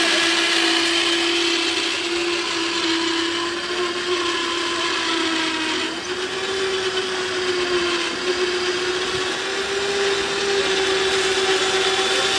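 Electric power tool motor running steadily with a constant whine; the pitch shifts slightly about halfway through, and the sound stops at the end.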